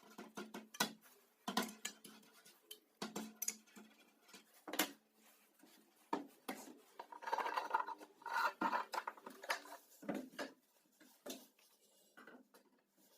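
Scattered light taps, knocks and scraping of wood and tools being handled at a workbench, with a longer stretch of rubbing or scraping about two-thirds of the way through.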